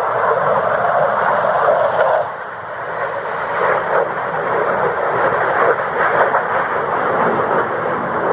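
Loud, steady roar of aircraft engine noise, easing briefly about two seconds in before building again.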